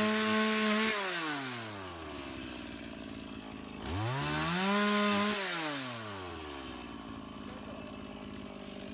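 Two-stroke chainsaw running at full throttle, dropping back to idle about a second in, revving up again near four seconds and holding briefly, then settling back to idle.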